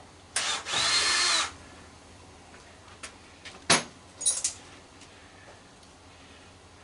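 Power drill with a Phillips bit spinning for about a second, backing a screw out of a microwave's sheet-metal casing, its motor whine dropping as it stops. A sharp click and a short metallic rattle follow.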